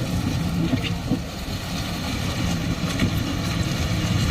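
A heavy vehicle's engine running steadily with a deep hum.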